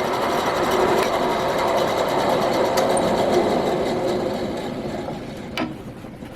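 A small electric motor of a power tool running steadily, fading over the last couple of seconds, with a sharp click near the end.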